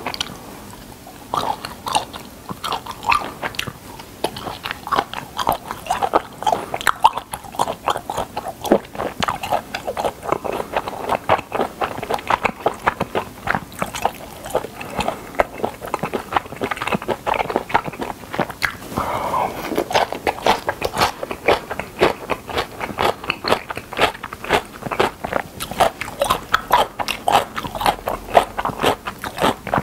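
Close-miked chewing of spicy whelk and somen noodle salad (golbaengi somyeon muchim): a dense, continuous run of mouth clicks and smacks.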